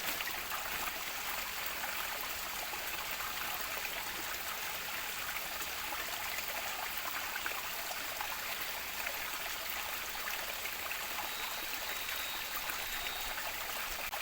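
Steady rush of running water, an even noise with no distinct events.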